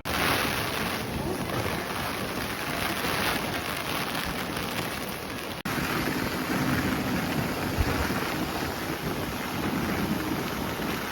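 Heavy rain falling in a steady hiss, with wind buffeting the microphone. It breaks off for an instant about five and a half seconds in, then carries on.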